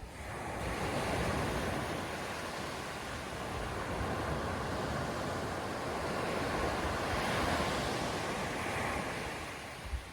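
Ocean surf breaking and washing up the beach, swelling louder twice, with wind rumbling on the microphone and a brief low thump near the end.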